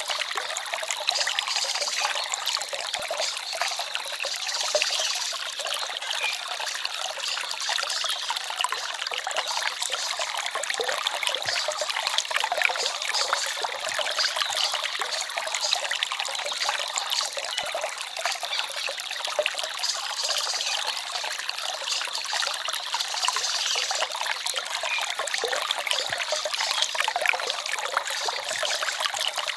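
Small forest stream babbling and trickling steadily, an even splashing hiss with almost no deep rumble.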